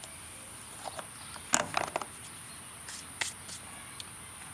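Insects droning steadily at a high pitch, with a few light clicks and rustles about a second and a half in and again near three seconds.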